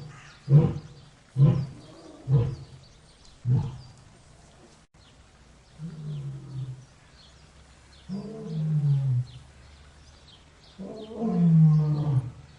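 A lion roaring: a run of four short, loud grunts about a second apart, then after a pause three longer calls that slide down in pitch, each longer than the one before.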